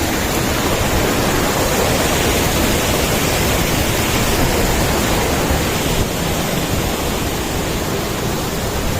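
Waterfall crashing down, a loud, steady rush of water.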